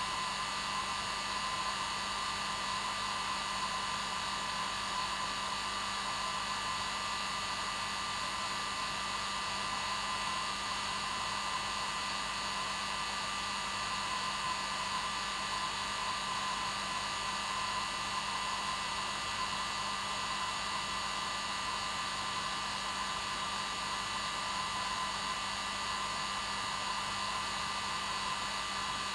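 Hair dryer running steadily, a constant rushing of air with a steady whine of the motor, played as white noise to lull a baby to sleep.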